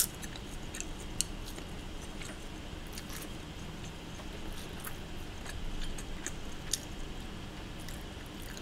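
Quiet chewing of crisp seasoned laver (gim), with scattered faint crunches and clicks over a low steady room hum.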